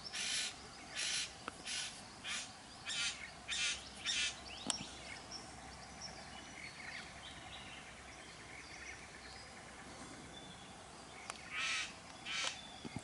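Male satin bowerbird giving short, harsh, rasping calls: a run of about seven over the first four seconds, a pause, then two more near the end.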